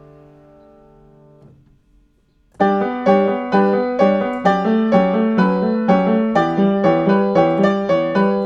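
Background piano music: a held chord fades out, a short pause follows, then a run of evenly paced notes starts about two and a half seconds in.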